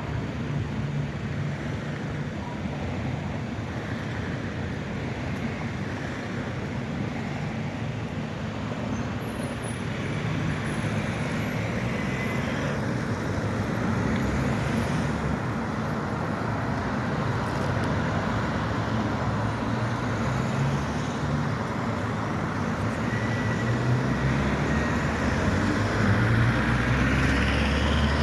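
Road traffic on a city street, a steady mix of passing vehicles. It grows louder over the last few seconds as a heavier vehicle draws close with a low rumble.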